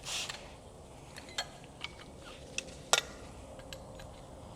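A few light, scattered metallic clicks and taps of tools and parts being handled while working on the engine, the sharpest about three seconds in.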